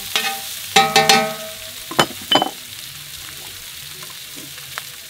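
Sausage slices and chopped garlic frying in butter in a cast-iron skillet, sizzling steadily. Metal tongs click and scrape against the pan a few times in the first half as they stir.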